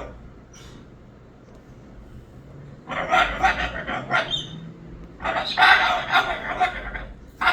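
Moluccan cockatoo calling: two long, loud calls of about two seconds each, one right after the other, starting about three seconds in.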